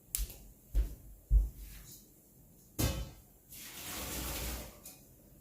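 Pot and colander knocking a few times, then about a second and a half of rushing water as a pot of pasta is drained.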